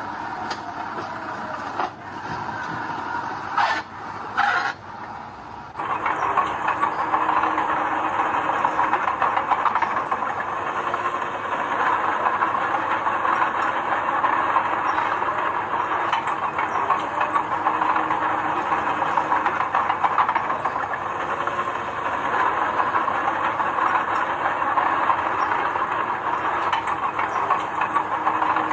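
Heavy construction machinery running with a steady, dense rattle, starting abruptly about six seconds in after a quieter stretch with two sharp knocks, and cutting off suddenly at the end.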